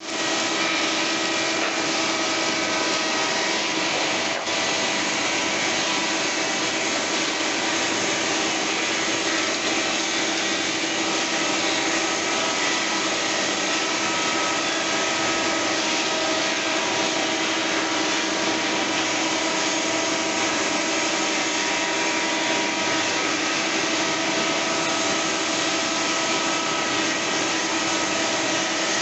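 Industrial double-sided thickness planer running, its cutterheads spinning with a steady whine over a loud rush of noise, with a brief dip about four seconds in.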